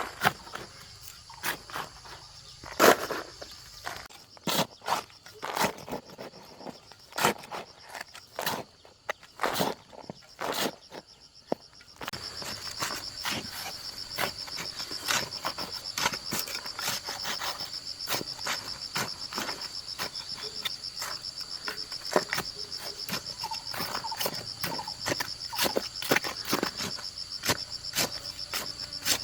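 Irregular sharp knocks and clicks, then about twelve seconds in a steady high insect trill begins abruptly, cricket- or cicada-like, with lighter clicks carrying on over it.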